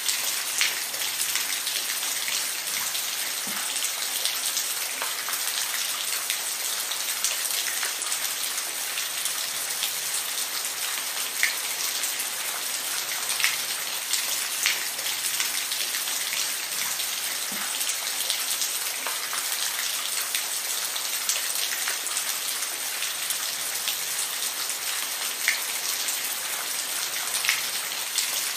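Steady rain falling, a constant hiss with scattered individual drops tapping close by.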